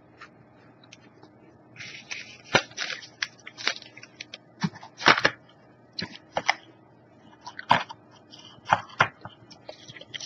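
Crisp Pocky-like cookie sticks coated in yogurt and chocolate being bitten and chewed: irregular sharp crunches and crackles starting about two seconds in, with the loudest snaps around the middle.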